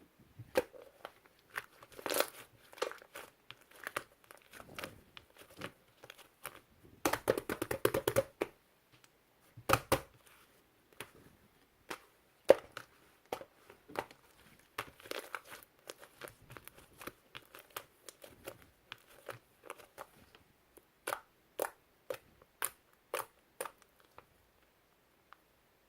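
Slime being kneaded and squeezed by hand, giving irregular sharp crackling pops and clicks, with denser flurries about two and eight seconds in.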